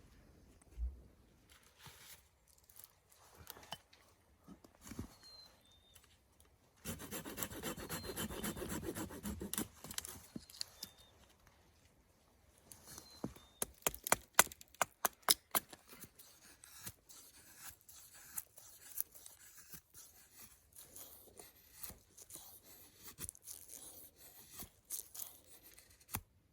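Dry wood being worked with hand tools: about three seconds of fast rasping strokes a quarter of the way in, then a quick run of sharp cracks and clicks near the middle, with scattered scraping in between. Birds chirp faintly.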